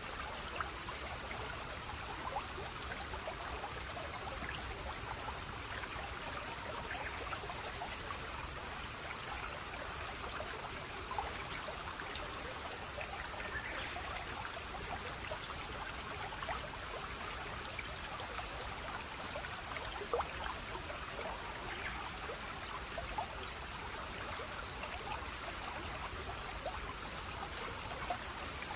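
A small stream of water trickling and babbling steadily, with many small splashes and drips.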